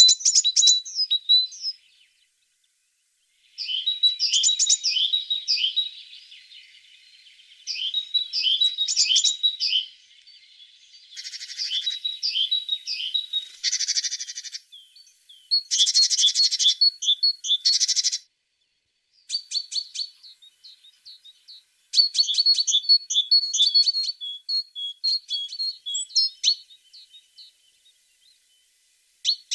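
A tit singing: bouts of quick, high chirping notes lasting a few seconds each, broken by short pauses, with a few harsher, buzzier passages in the middle.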